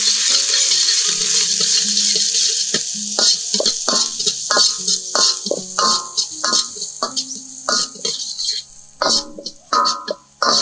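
Chopped garlic and red chilli sizzling in hot oil in a metal wok, the hiss loud at first and easing after a few seconds. Through the second half, a spatula scrapes and knocks against the wok in steady strokes about every half second.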